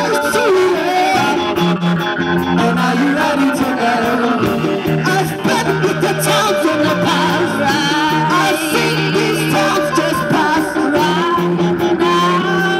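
Band playing a ska-flavoured rock song live, with guitar and singing.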